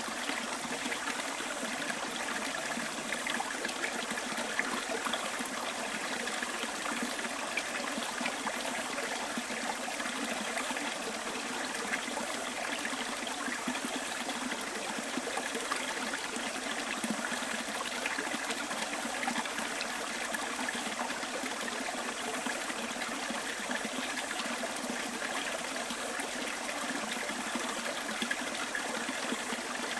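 Small bush stream running and trickling over stones, a steady even rush of water.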